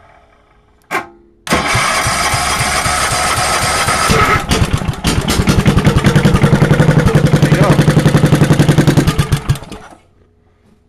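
A 10-horse Tecumseh engine with an open exhaust, cranked by its electric starter after a click, catches and fires in a fast, even pulse for about five seconds, then dies out near the end. It will not yet hold an idle after the throttle was opened a little.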